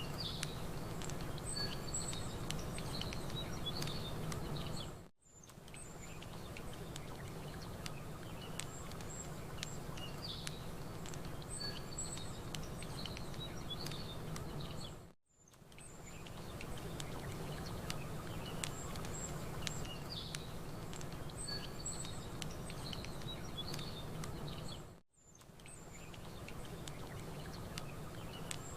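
Campfire crackling with a low, steady wash of lapping water and small birds chirping. The sound is a loop that fades briefly to silence about every ten seconds, three times.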